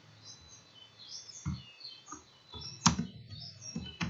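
Birds chirping, with one sharp click about three seconds in and a couple of softer taps near the end.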